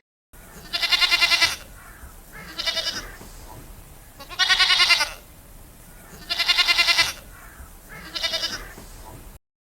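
Goat bleating five times, each call wavering in pitch; the longer calls alternate with shorter ones.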